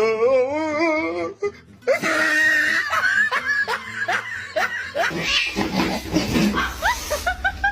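Laughter over background music: a wavering laugh in the first second or so, then a string of short rising laughing sounds that come faster near the end.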